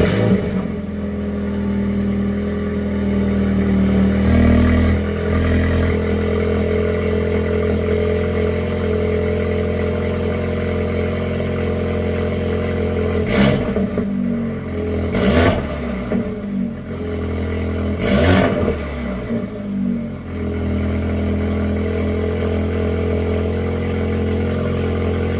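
Audi S3's turbocharged 2.0-litre four-cylinder engine on a cold start. It catches with a loud flare, then settles into a steady fast cold idle. Past the middle it is given three quick revs a couple of seconds apart, each rising and falling back, before idling on.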